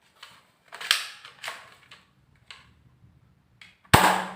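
Plastic toy gun snapping and clicking as it is worked and fired: about six short, sharp snaps spread out, the loudest a crack near the end.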